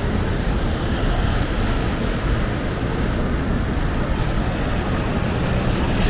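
Wind buffeting the microphone: a steady, rumbling noise, with a short click near the end.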